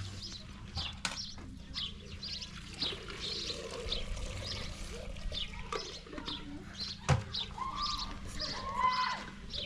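Small birds chirping repeatedly, with a single sharp knock about seven seconds in.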